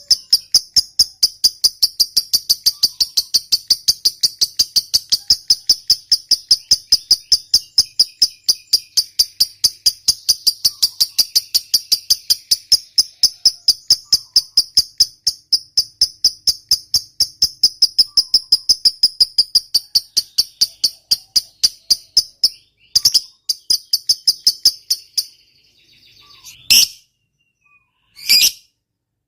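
Lovebird giving a long 'ngekek' chatter: a fast, even run of shrill, sharp notes kept up for over twenty seconds. It breaks off and gives way to a few separate calls near the end.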